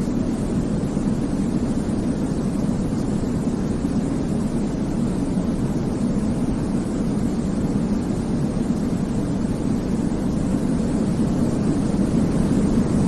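Steady, deep white noise for baby sleep: an even hiss with no rhythm or tones, weighted toward the low end.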